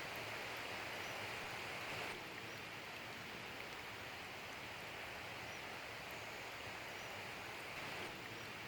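Steady rushing of a small forest stream hidden in thick vegetation, an even hiss of flowing water.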